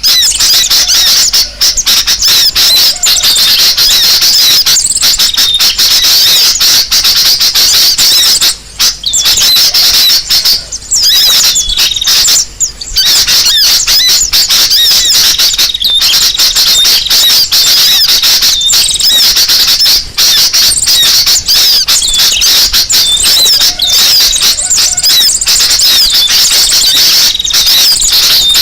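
Dense, continuous chattering and chirping of many small birds at once, high-pitched and never letting up. This is a 'noisy birds' lure recording of the kind played to draw birds in.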